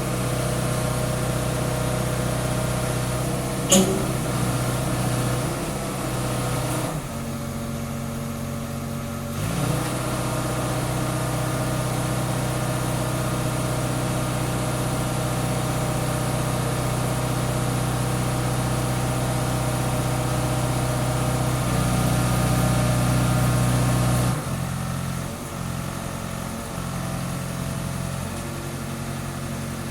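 Scania G 410 truck's diesel engine running steadily at low speed, its note shifting a few times as the revs change. A sharp click about four seconds in.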